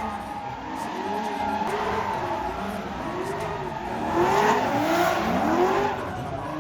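Drift car's engine revving up and down again and again, with tyre squeal from the sliding car; it gets loudest about four seconds in.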